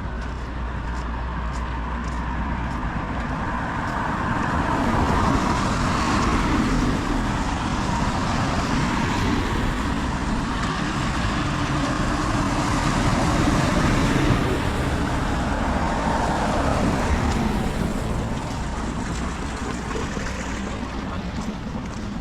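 A road vehicle passing on a wet road, its engine and tyre hiss swelling over a few seconds, holding, then fading, over steady heavy rain.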